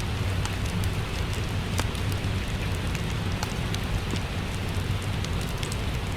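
Steady rain falling, mixed with a wood fire crackling in a fireplace: a constant wash of rain with a low rumble underneath and scattered small pops and snaps.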